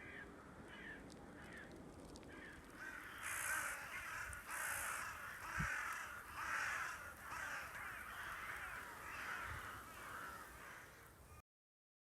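Many crows cawing in overlapping, repeated calls, denser and louder from about three seconds in; the sound cuts off abruptly near the end.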